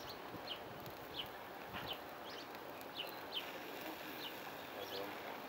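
A small bird chirping over and over, short falling chirps about two a second, over faint outdoor background noise.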